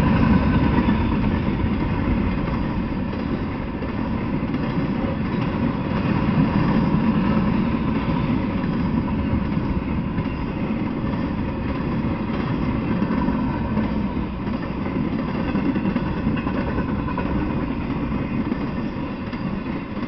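Intermodal freight train rolling past, its flatcars and well cars loaded with containers and semi-trailers, wheels rumbling steadily on the rails. The rumble eases slightly toward the end.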